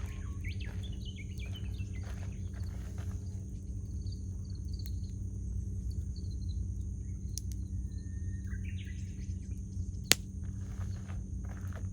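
Wood campfire crackling, with scattered small pops and one sharp, loud snap about ten seconds in. Small birds chirp in short calls throughout.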